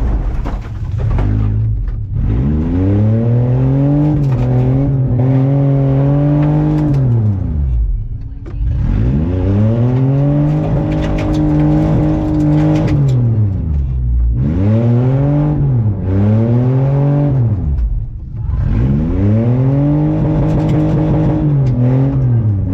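Off-road race truck's engine revving hard: the revs climb, hold high for a few seconds, then drop away, over and over, about five times.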